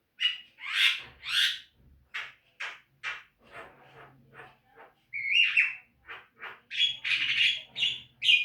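Javan myna (jalak kebo) calling: a string of short, harsh notes about half a second apart, coming faster and running together into chatter in the last second or so.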